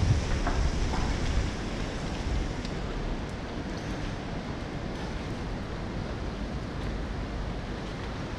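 Steady rain falling on wet pavement and street: an even hiss with a few faint ticks of drops. A low rumble sits under it for about the first second.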